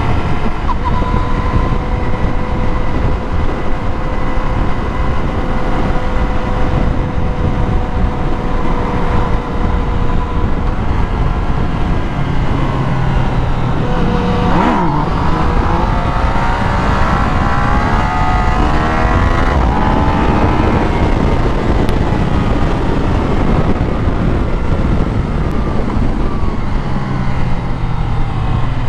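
Motorcycle engine running under way with heavy wind rush. Its pitch holds steady at first, then rises and falls repeatedly in the second half as the bike speeds up and shifts. About halfway through, another vehicle sweeps past.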